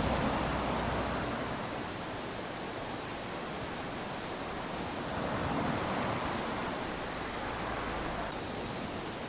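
Small waves lapping onto a sandy beach: a soft rush of surf that swells as a wave washes in near the start, eases off, and swells again about five to six seconds in.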